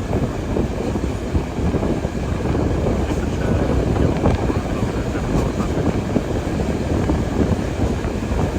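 Wind buffeting a phone's microphone: a steady, loud low rumble that swells and dips.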